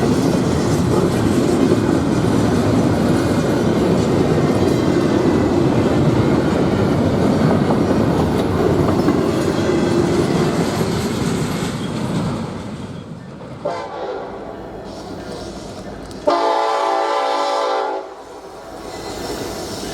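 A train passing with a steady rumble and wheel clatter that fades after about twelve seconds. A brief faint horn note follows, then a louder train horn blast of under two seconds near the end.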